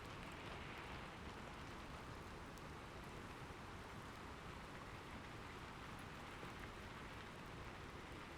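Steady, fairly faint rain falling, with scattered drop ticks and no thunderclap.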